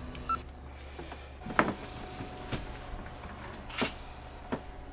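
A few scattered, separate knocks and taps over a low steady hum, with a short electronic beep just after the start.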